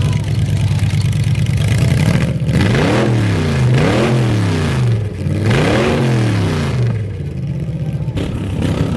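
A vehicle engine idling, then revved three times in quick blips, its pitch rising and falling each time, before settling back to idle.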